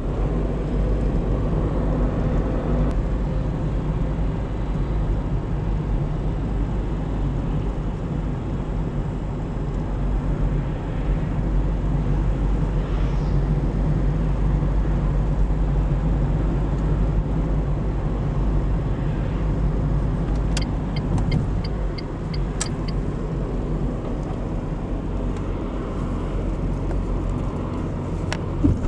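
Car driving on the highway: a steady low rumble of engine and tyres. About twenty seconds in, a short run of quick, evenly spaced high ticks.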